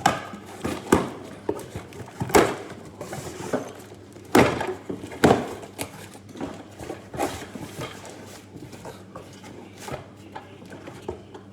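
A run of irregular knocks, clicks and light clatter of hard objects being handled, loudest in the first half and thinning out later, over a faint steady hum.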